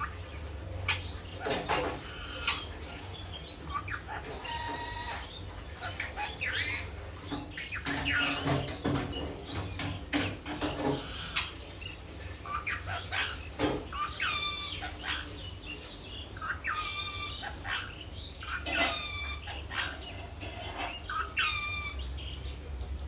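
Ringneck parakeet chattering and calling: a string of short, pitched calls in irregular bursts with pauses between them.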